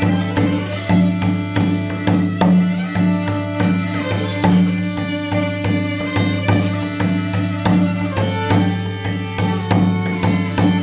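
Live improvised music in Korean traditional style: a sustained low drone and pitched string lines over an even beat of drum strokes, about three a second.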